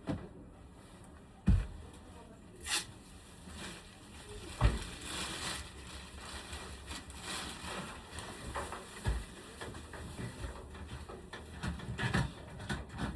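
Handling noises: a few dull thumps about a second and a half, four and a half, and nine seconds in, amid scattered clicks and rustling.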